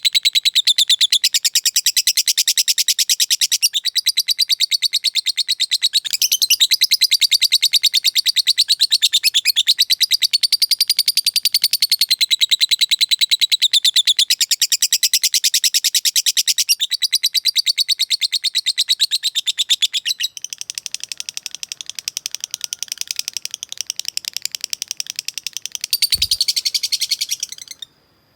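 Lovebird ngekek: a long, very rapid chattering trill of high chirps, run in long unbroken phrases with only brief breaks. It goes softer for several seconds in the latter part, swells again, then stops abruptly near the end. This is the sustained ngekek song that the title says provokes rival lovebirds into answering.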